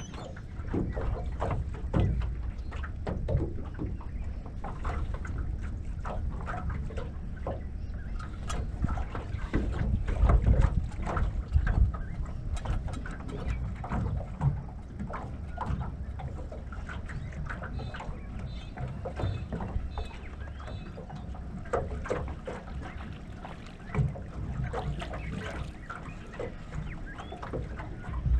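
Wind rumbling on the microphone, with many scattered knocks and clicks from handling in a small boat.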